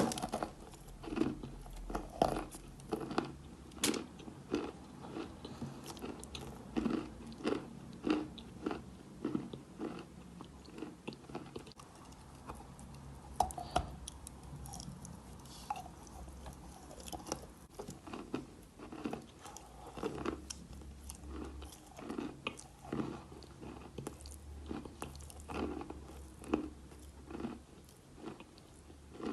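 Close-miked crunching and chewing of chalk: short, dry crunches about one or two a second as pieces are bitten and chewed, with the sharpest bite right at the start.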